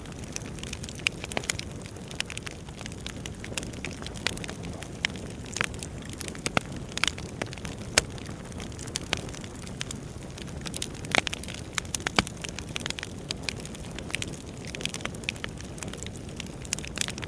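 Wood fire crackling: irregular sharp pops and snaps over a steady low rumble of burning firewood.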